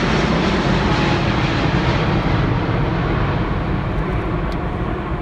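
Jet noise from an Airbus A350 XWB's two Rolls-Royce Trent XWB turbofans as it flies past. It is a loud, even rumble whose higher part thins out and which slowly fades over the last couple of seconds as the aircraft moves away.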